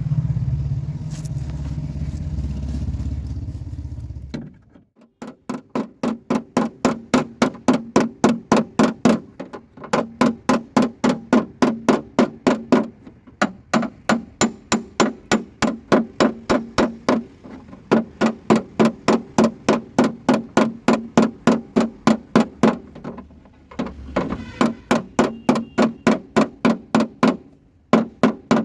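Hammer blows on metal, struck in steady runs of about two to three a second with a short ring after each, broken by brief pauses, as in panel beating a car's running board. A low steady rumble comes before the hammering, for about the first four seconds.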